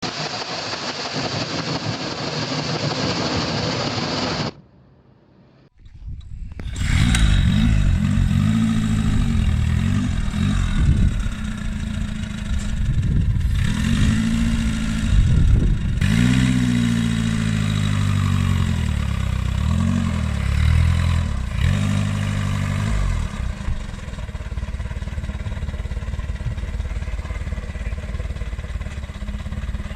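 Nimbus Model C motorcycle's four-cylinder inline engine: it comes in a few seconds in, after a short noisy passage and a brief gap, is revved up and down several times, then settles into a steady idle for the last few seconds.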